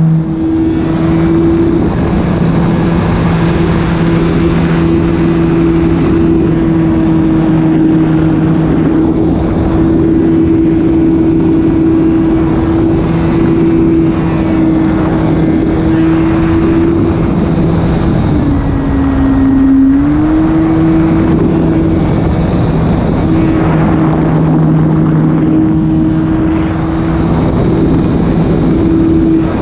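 E-flite Carbon-Z Cub SS radio-controlled plane's electric motor and propeller running at a steady drone, mixed with airflow noise. The pitch drops briefly at about two-thirds of the way through, as the throttle is eased, then climbs back.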